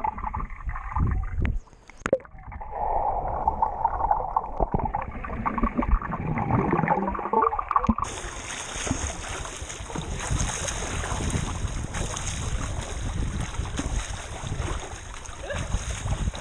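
Pool water splashing and gurgling for about eight seconds, then an abrupt change to a steady rushing noise.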